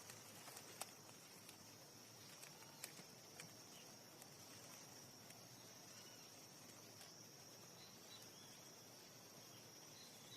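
Near silence with a faint, steady, high-pitched insect trill, like crickets, and a few soft clicks in the first few seconds.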